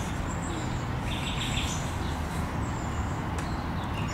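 Small birds chirping in short runs of quick repeated notes and thin high whistles over a steady low background rumble.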